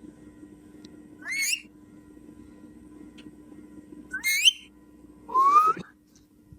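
Pet parrot giving three short rising whistles, the last one lower in pitch.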